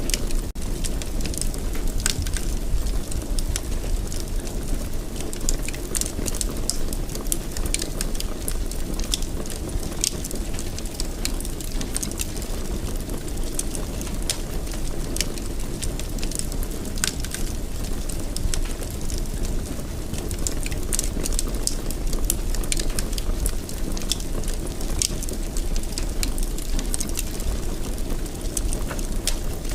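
Fire burning in a fireplace: a steady low rush of flames with frequent irregular crackles and pops throughout.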